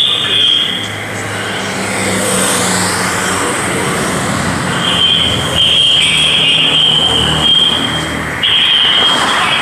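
Car engines running as vehicles drive slowly past, over a steady high-pitched whine that cuts in and out.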